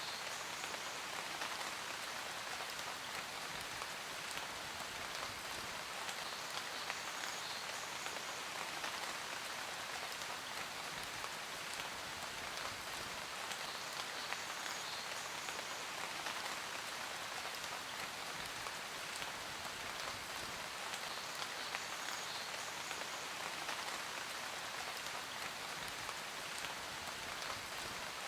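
Steady rain falling on a surface, a constant hiss of many drops with small individual patters throughout.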